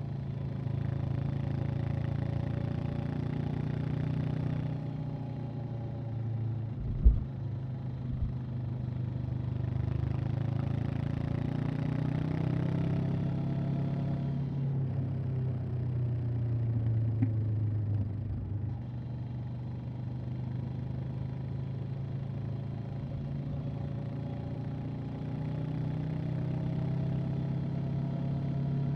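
Honda CB500X's 471 cc parallel-twin engine and exhaust running under way, its pitch rising and falling several times, with one sharp thump about seven seconds in.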